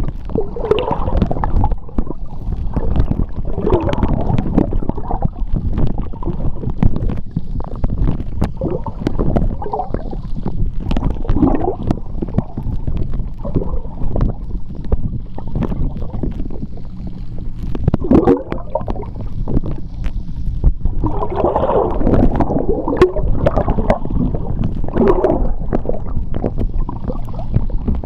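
Sea water heard underwater: a steady low rumble of moving water with irregular bubbling and gurgling, busier a little past the middle, and scattered sharp clicks.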